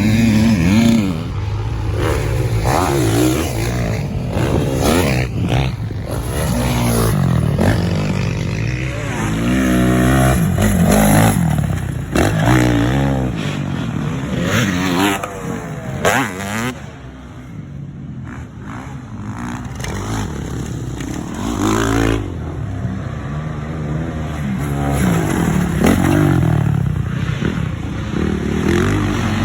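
Motocross dirt bike engines revving up and backing off again and again, their pitch rising and falling as the bikes accelerate, with a quieter stretch a little past the middle.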